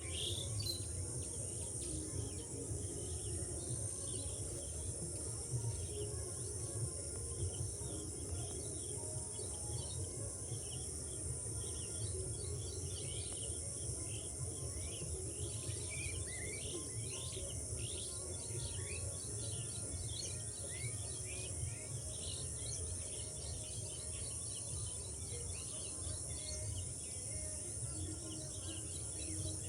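Many small birds chirping and twittering in quick, short, falling calls, over a steady high insect buzz and a low background rumble.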